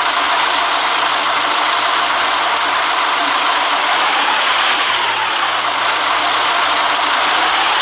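City bus running, with a steady loud hiss of tyres on a wet road. A faint engine tone dips in pitch and rises again in the second half.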